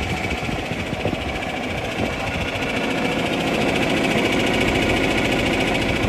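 John Deere 4010 tractor's six-cylinder engine running steadily.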